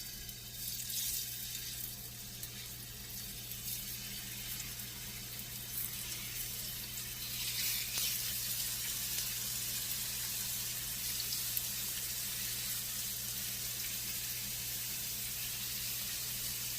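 Thin-sliced chicken thigh pieces sizzling as they go into hot vegetable oil in a skillet. The sizzle swells about a second in and again around eight seconds, then holds steady.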